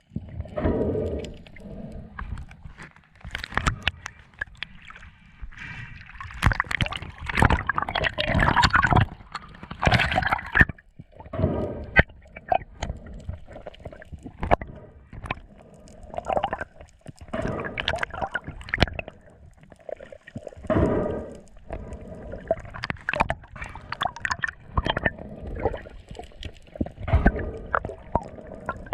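Water sloshing and gurgling in irregular surges, with scattered splashes and clicks.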